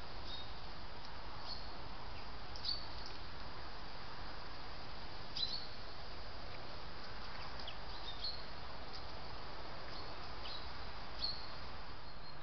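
Small songbirds giving short, high chirps, some falling in pitch, every second or so over a steady background hiss.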